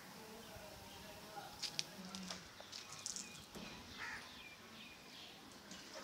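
Faint outdoor background with scattered short bird chirps and calls.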